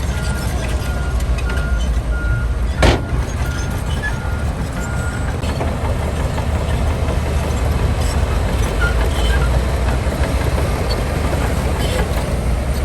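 Heavy earthmoving machinery running with a steady low diesel rumble, and a reversing alarm beeping evenly until about five seconds in. A single sharp bang, like metal striking metal, comes about three seconds in.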